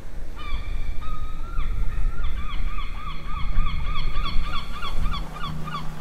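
A bird calling: a few longer held notes, then a quick run of short, evenly repeated notes, about four a second, that stops just before the end, over a low rumble.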